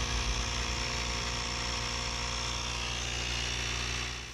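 AEG 18V cordless inflator running steadily, pumping up a 235/75R15 camper trailer tyre from about 16 psi, with a low hum underneath. The sound drops away briefly at the very end.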